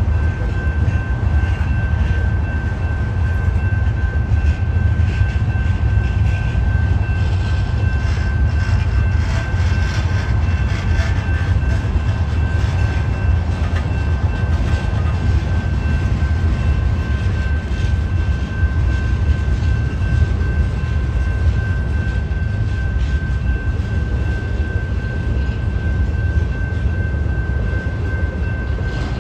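Freight cars rolling past: a steady low rumble of steel wheels on rail, with clicking and clanking strongest from about seven to twelve seconds in. A steady high tone runs over it throughout.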